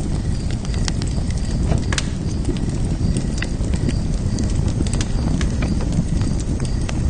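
Fire-pit fire crackling, with many sharp irregular pops and snaps over a steady low rumble of burning flames.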